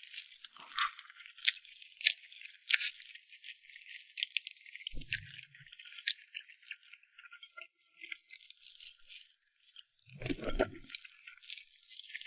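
Close-miked eating of cream cake: a dense run of small wet mouth clicks and smacks while chewing. Two short low sounds break in, a faint one about five seconds in and a louder one near the end.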